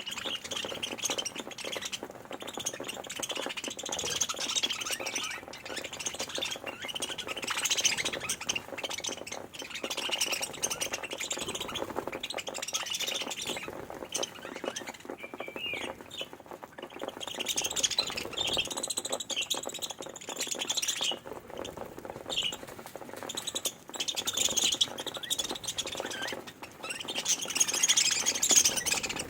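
A flock of budgerigars chirping and chattering without pause, the many overlapping calls swelling and fading.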